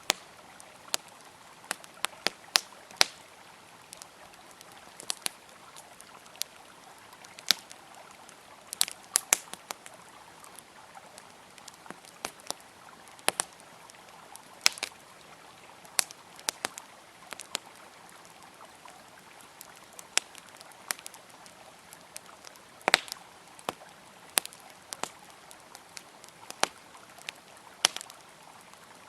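Wood fire crackling, with irregular sharp pops and snaps, over the steady rush of a flowing river.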